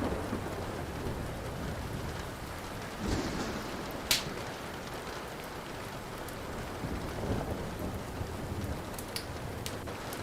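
Steady rain with low rolls of thunder, and a wood fire crackling: one sharp pop about four seconds in and a few small snaps near the end.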